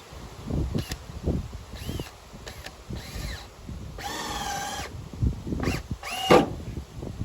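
A cat meowing several times: short rising-and-falling cries and one longer, wavering meow near the middle, with soft knocks and rustling underneath.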